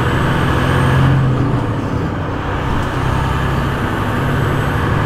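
Tractor-trailer's diesel engine running, heard inside the cab: a steady low hum that swells about a second in and then eases off.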